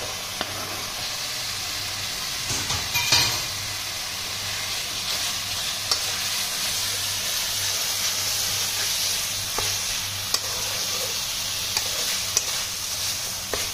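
Onion-garlic masala with freshly added tomato pieces sizzling in oil in a kadai, stirred with a metal spatula that scrapes the pan and clicks against it now and then. The stirring is a little louder about two and a half seconds in.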